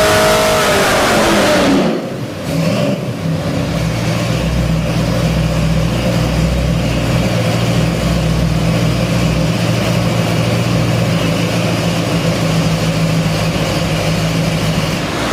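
Ford 302 small-block V8 crate engine on an engine dyno, ending a full-throttle pull at about 6,200 rpm. Its revs fall away steeply over about two seconds, then it settles into a steady idle.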